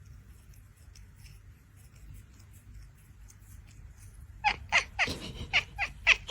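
A cat giving a quick run of short, high calls, about four a second, starting about four seconds in over a faint low hum.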